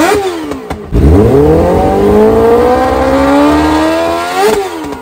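Sport motorcycle engine being revved while it stands still: a rev dies away at the start, then about a second in it is opened up again and held, climbing slowly in pitch for about three seconds, with a quick sharp blip and drop near the end.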